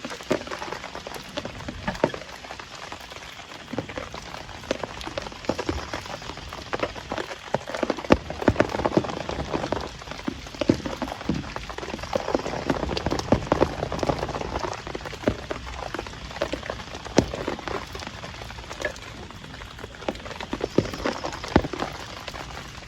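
Heavy rain drumming on a surface: a dense, irregular patter of drop hits that swells through the middle and eases toward the end.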